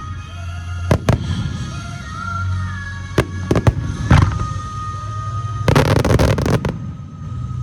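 Fireworks shells bursting: several sharp bangs in the first half, then about a second of dense crackling near the end, over music.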